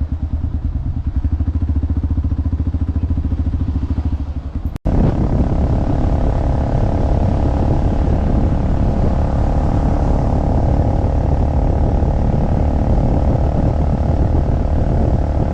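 Motorcycle engine running at low revs with an even, rapid pulse, then, after an abrupt cut about five seconds in, a louder stretch of the motorcycle under way, engine and rushing noise together.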